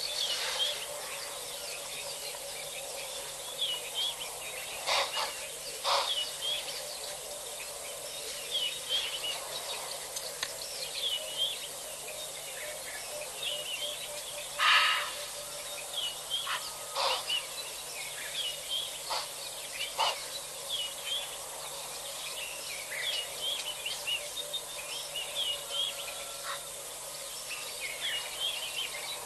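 Wild birds chirping and calling over and over, short high calls over a steady faint hiss, with a louder call about fifteen seconds in.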